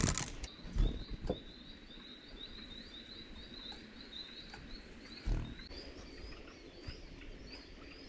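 A songbird calling in a long, even series of short high notes, a few a second, with a few low thumps near the start and one about five seconds in.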